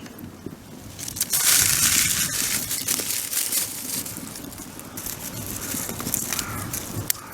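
Dry material crunching and crackling with many small clicks, loudest for a couple of seconds from about a second and a half in.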